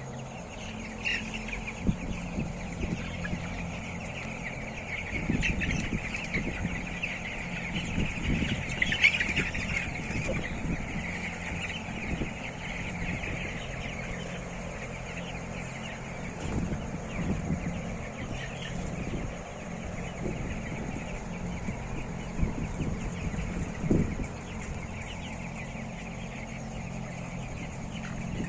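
A large flock of poultry-farm chickens clucking and chirping continuously, a dense mass of overlapping calls, over a steady low hum, with a few dull thumps.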